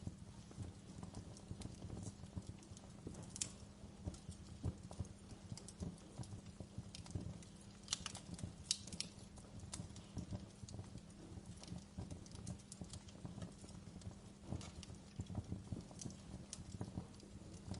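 Wood fire crackling in a fireplace: irregular sharp pops and snaps over a low rumble, with a few louder pops about eight to nine seconds in.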